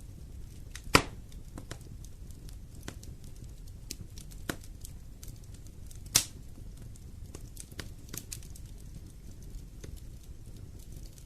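Wood fire burning in a fireplace: a steady low rumble of flames with scattered crackles, and two sharp pops from the burning wood, one about a second in and one about six seconds in.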